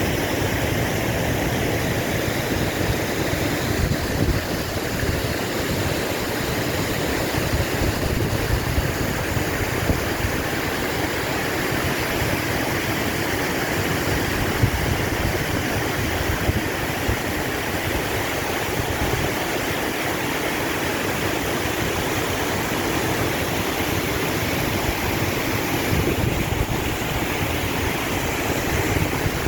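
Steady rushing of water from a mountain stream or waterfall, an even noise that holds without a break.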